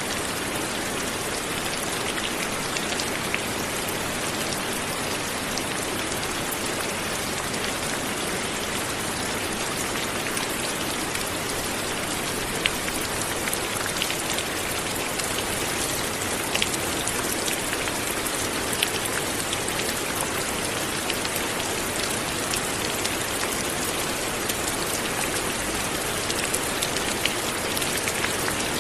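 Steady light rain falling, an even hiss with scattered close raindrop ticks.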